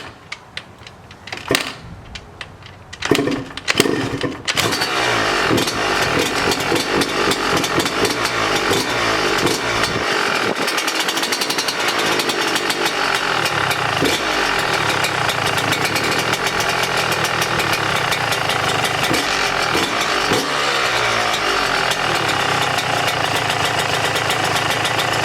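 A 2018 Yamaha YZ125's 125 cc single-cylinder two-stroke engine being kick-started on its first start after a fresh top-end rebuild. A few kicks, then about four seconds in it fires and keeps running, its speed rising and falling a few times.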